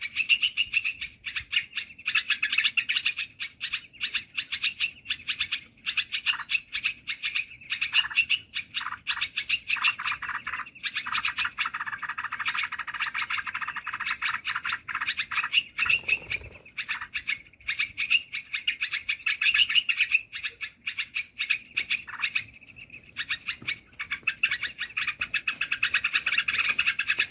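Dense, rapid chattering chirps of small birds, the bird-trapping lure call (suara pikat) for bulbuls such as the merbah belukar, going on almost without a break. A faint steady high whine sits underneath.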